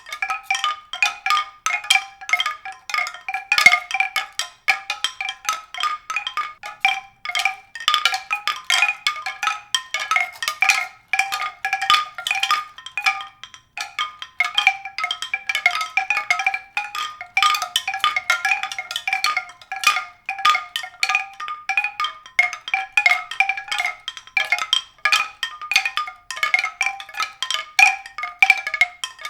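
Bright tuned percussion: many quick struck notes ringing in a high register, played continuously with a few brief pauses.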